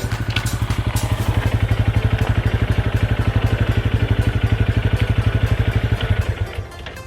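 Honda Grom's 125cc single-cylinder engine running with an even, rapid pulsing exhaust beat, cutting off shortly before the end.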